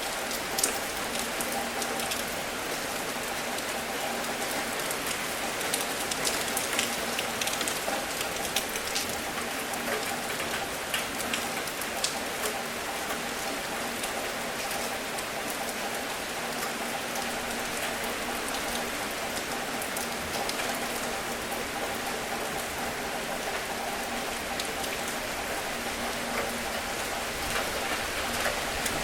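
Steady rain, with scattered drops ticking sharply on a hard surface; the ticks come thicker for several seconds about a quarter of the way in.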